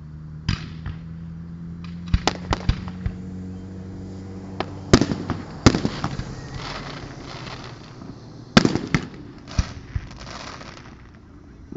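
Fireworks display: sharp bangs of exploding shells, a quick cluster of them about two seconds in, then louder pairs about five and nine seconds in, each followed by a crackling trail. A steady low hum runs underneath during the first half.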